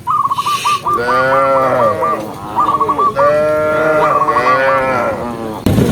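A cow mooing twice, two long calls that rise and fall in pitch, over a fast, repeated high chirping.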